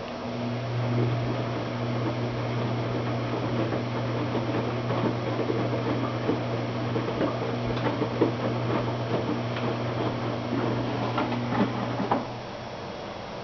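Washing machine running: a steady low motor hum with irregular knocks and clicks from the tumbling load, which stops suddenly about twelve seconds in.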